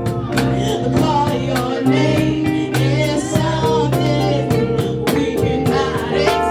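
Live gospel worship music: singing over a band with guitar, bass and drum kit keeping a steady beat.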